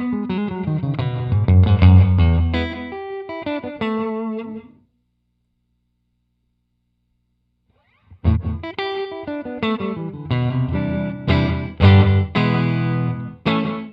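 Electric guitar played through an Alabs Cetus reverb pedal on its room setting: picked notes and chords that cut off suddenly about five seconds in, then start again after about three seconds of silence.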